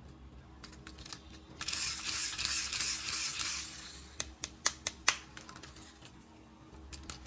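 Handling noise from a plastic toy: a rustling hiss for about two seconds, then a quick run of sharp plastic clicks and a couple more near the end.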